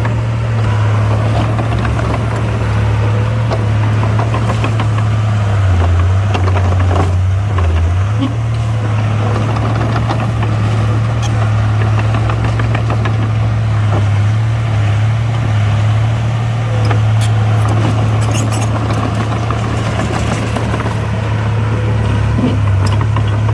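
Heavy earthmoving machinery's diesel engine running steadily with a deep hum, with scattered light clicks and knocks over it.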